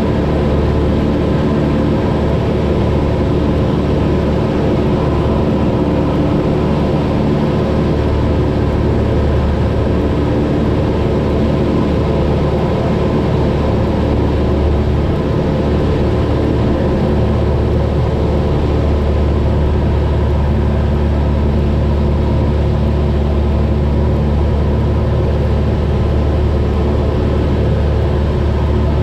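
Cessna 172's piston engine and propeller running steadily in flight, heard from inside the cabin as an even drone with a stack of steady engine tones.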